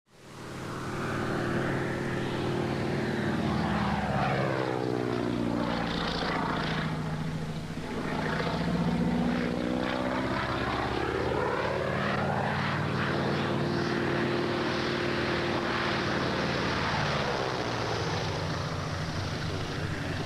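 Single-engine propeller airplane engine droning steadily in flight, fading in at the start; its tone sweeps down and back up as the plane passes, twice.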